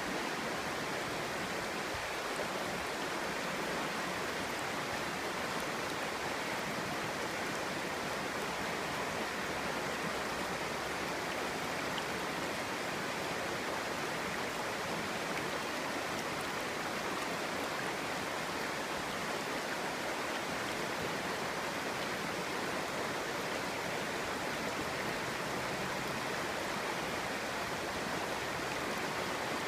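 Clear, shallow stream babbling steadily over stones.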